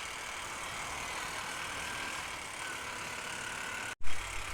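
Honda Unicorn motorcycle riding along the highway: a steady engine drone under road and wind noise. Near the end the sound cuts out for an instant, then returns with heavy low wind rumble on the microphone.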